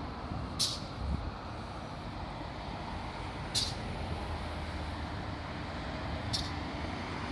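Steady outdoor rumble of road traffic, with three short high hisses about three seconds apart.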